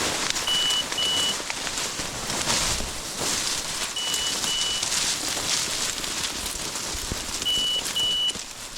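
Steady rustling and crunching of walking through cattails and snow, with an electronic beeper sounding a short double beep three times, about every three and a half seconds.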